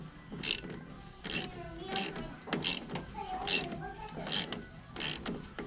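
Metal hose clamp being worked over a rubber-wrapped intercooler pipe joint: short scraping, ratchet-like strokes about once a second, with faint rubbery squeaks between them.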